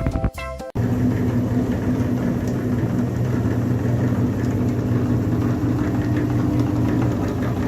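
Jazzy music cuts off abruptly under a second in. A mini tractor's motor then runs steadily with an even drone.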